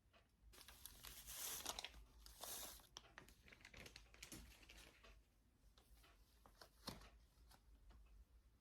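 Faint rustling and crinkling of something being handled, loudest in the first few seconds, with a few light clicks after.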